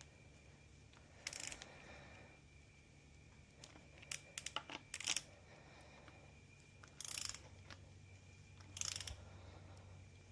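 A few faint, spaced-out metallic clicks and short ratcheting bursts from hand tools, a torque wrench and socket, working the bearing-cap bolts of a Continental Z134 gas engine.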